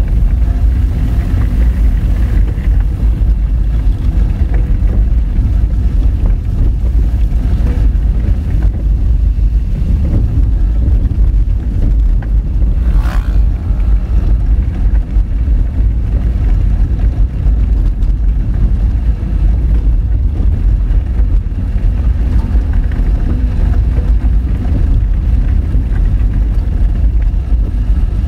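Honda Fit driving over a rough, rocky gravel road: a loud, steady low rumble of tyres on gravel and engine. About halfway through there is one brief, sharper noise, likely a stone striking or scraping the car.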